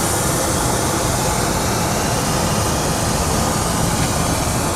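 Steady cabin noise inside a Boeing 737-800 in flight: an even rush of airflow and engine noise with no changes.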